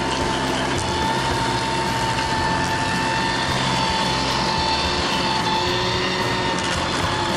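A machine running steadily, with a constant engine hum and a steady high whine over it.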